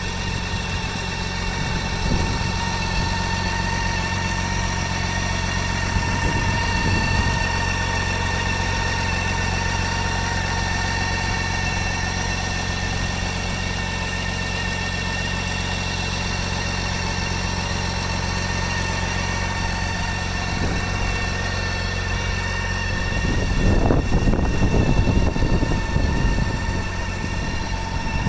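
Motorcycle engine idling steadily with a steady whine above the low drone, getting louder for a few seconds near the end.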